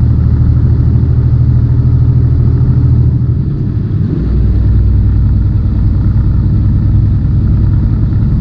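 Semi-truck diesel engine droning steadily, heard from inside the cab. About three and a half seconds in, the engine note changes and dips briefly, then settles into a new steady pitch.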